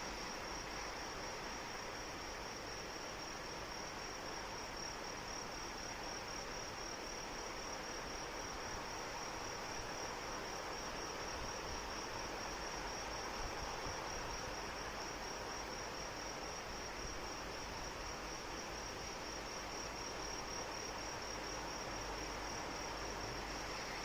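Crickets trilling in a high, rapid, evenly pulsed chirp over the steady hiss of falling rain.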